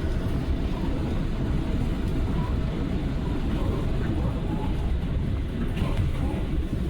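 R179 subway car running between stations, heard from inside the car: a steady rumble of wheels on rails.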